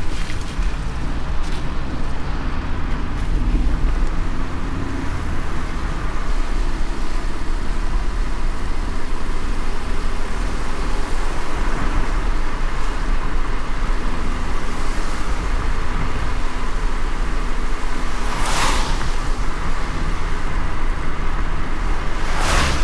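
A car driving in light rain: a steady low road rumble and tyre hiss. Two brief swishes come near the end, about four seconds apart.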